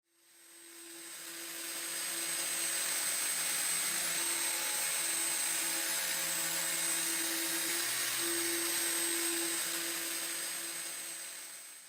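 A power tool motor running steadily: a constant whine over a strong hiss. It fades in over the first couple of seconds and fades out at the very end.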